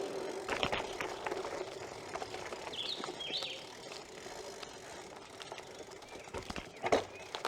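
BMX bike rolling along a trail: steady tyre noise with scattered clicks and knocks from the rigid, unsuspended bike over bumps, loudest a bit before one second in and again near the end. Two short bird chirps about three seconds in.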